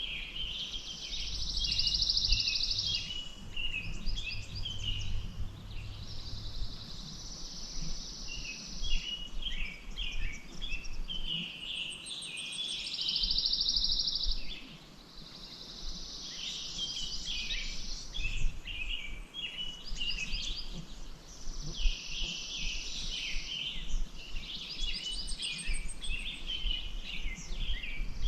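Several songbirds singing outdoors: a busy mix of short chirps, with a high, rapid trill about two seconds long repeating every few seconds.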